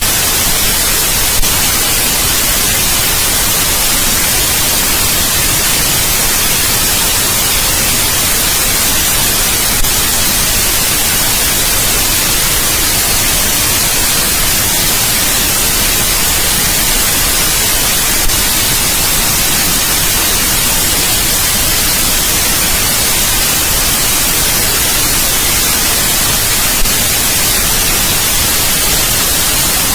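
Steady white noise: an even, constant hiss, strongest in the treble, with a brief click about every eight and a half seconds.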